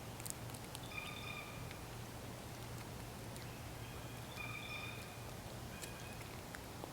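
Wild bird calling: three clear, ringing notes spread over a few seconds, with faint scattered clicks.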